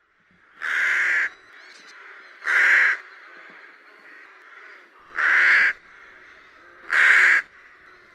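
Rook cawing: four separate caws, each about half a second long, at uneven intervals.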